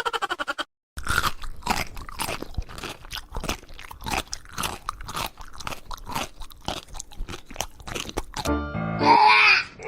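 Crunchy chewing: a run of quick, irregular crunches, as of something hard and crisp being bitten and chewed, stopping shortly before the end.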